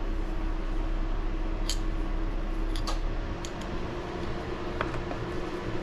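A few light clicks and ticks from small parts and tools being handled, over a steady low background hum.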